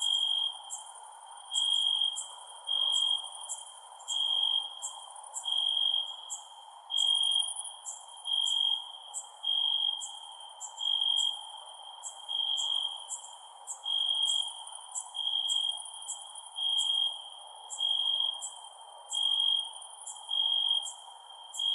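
Crickets chirping: a clear chirp repeating about once a second, over a higher, finer ticking chorus and a steady low hiss.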